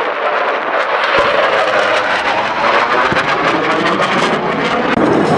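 Military aircraft noise over a battlefield demonstration, with a steady roar overlaid by rapid crackling gunfire from about a second in and a couple of deep booms from pyrotechnic explosions.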